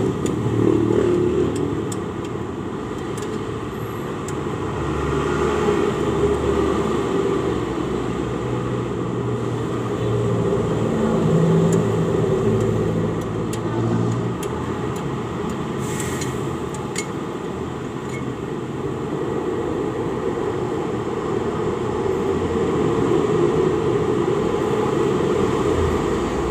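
Steady low rumble of motor vehicles that swells and fades several times, with scattered light clicks and one sharper click about two-thirds of the way through.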